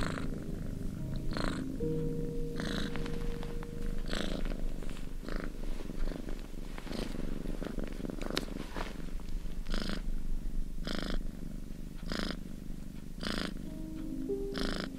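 A cat purring, with rhythmic breaths coming about once a second, over soft background music.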